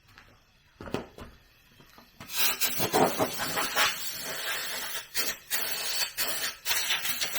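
A couple of knocks, then from about two seconds in a steady rough scraping or rubbing with many small clicks, like something being filed, scrubbed or rubbed hard.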